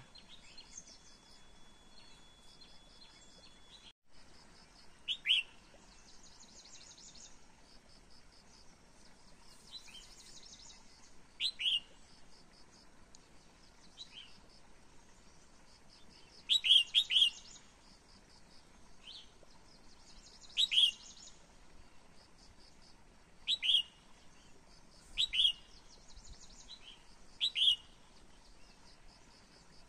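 A songbird calling: short, sharp notes that slide downward, some in quick pairs, repeated every few seconds. A fainter, rapidly pulsing high trill comes and goes behind them.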